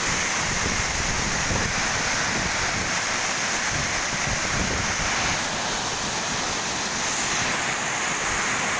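Steady rush of a waterfall's falling water, an even noise at a constant level.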